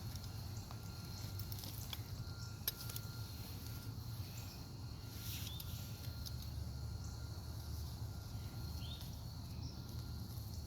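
Faint rustling and a few light clicks as hands pull apart sweet potato roots and soil from a grow bag, over a steady low hum.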